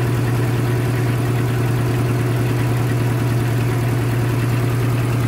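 Old Nissan pickup engine idling steadily, warmed up to operating temperature.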